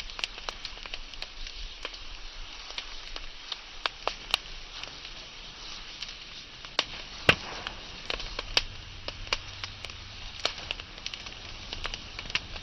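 Wood fire crackling: a steady hiss with many irregular sharp pops and snaps, the loudest about seven seconds in, and a low rumble of flames setting in about eight seconds in.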